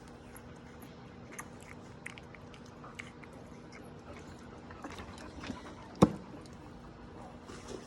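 American Pit Bull Terrier puppies chewing and gnawing, with scattered small clicks and one loud knock about six seconds in, over a faint steady hum.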